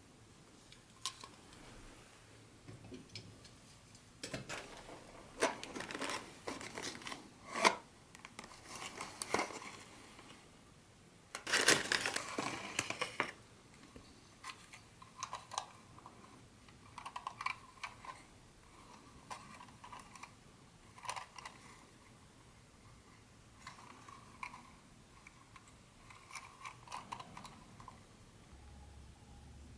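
Packaging being handled and unwrapped: irregular crinkling and rustling with small clicks and taps. The longest, loudest stretch of crinkling comes about twelve seconds in.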